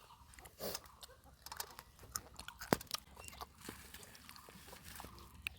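Someone chewing and biting food: faint, scattered crunches and clicks.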